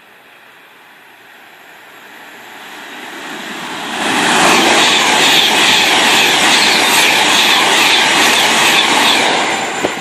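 A train passing through at speed: the rail noise builds over about four seconds, then a loud, steady rush of wheels on rails for about five seconds, easing off near the end.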